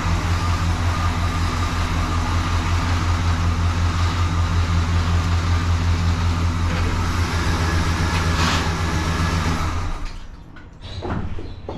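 A 1972 Chevrolet Malibu's engine idling steadily, then shut off about ten seconds in, followed by a few light knocks and clicks.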